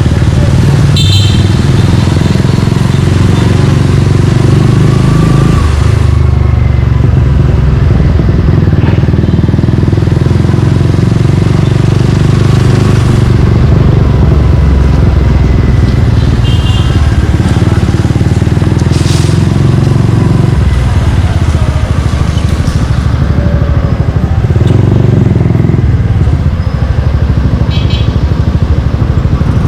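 Suzuki Gixxer 155's single-cylinder four-stroke engine running as the bike is ridden, its note changing with throttle every several seconds.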